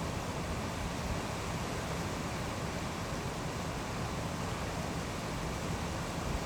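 Waterfall rushing in a steady, unbroken hiss.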